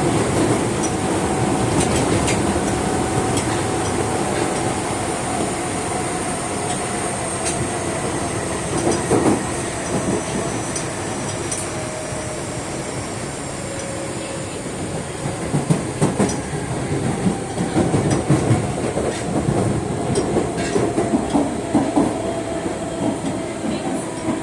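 Osaka Metro 22 series subway train running, the whine of its GTO-VVVF inverter drive slowly shifting in pitch over the rumble of the car. In the second half the wheels clack repeatedly over rail joints.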